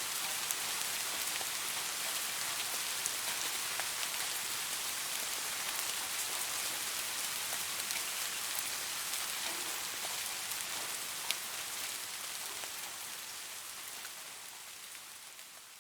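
Rain falling steadily, an even hiss with individual drops ticking here and there, gradually fading out over the last few seconds.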